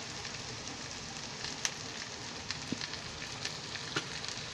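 Ivy gourd (tendli) pieces frying in oil in a pan: a steady sizzle with scattered small crackles.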